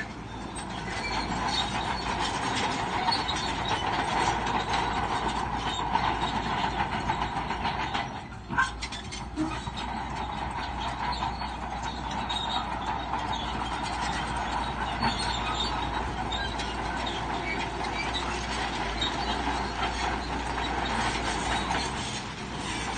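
Crawler bulldozer working: diesel engine running under load with the steel tracks clanking and squealing steadily, easing briefly about eight seconds in.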